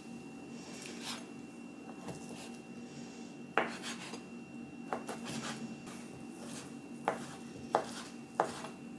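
Kitchen utensils and dishes being handled during food prep: irregular clinks and knocks with some rubbing and scraping, over a steady low hum.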